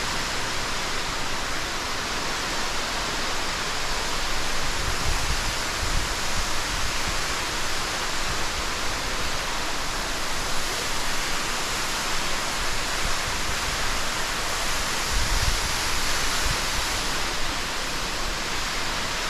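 Underground waterfall inside a cave: a steady rush of falling water, with a few brief low thumps.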